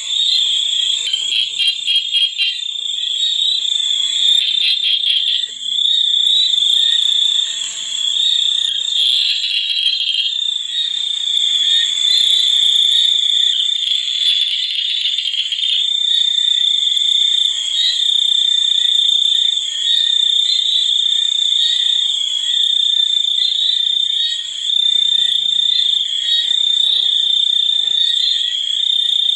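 Frogs and insects calling together: a steady, high-pitched drone with rapid pulsed calls over it, busiest in the first few seconds.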